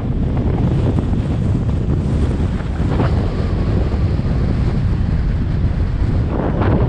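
Strong wind buffeting the microphone: a loud, continuous low rumble with a rushing noise over it.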